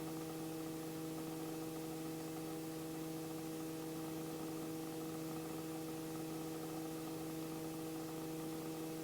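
Steady hum of the Robinson R44 helicopter in a hover, heard through the cockpit intercom: a constant low drone with a few even tones above it, unchanging in pitch and level.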